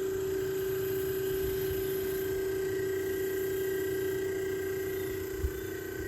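1956 Fedders room air conditioner with a half-horsepower compressor running: a steady humming drone, the unit cooling so hard that its coil is ice cold. A single short thump comes near the end.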